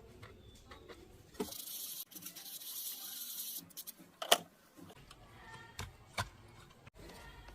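Workbench handling noises: scattered clicks and light knocks, a hiss lasting about two seconds in the first half, and one sharp click near the middle.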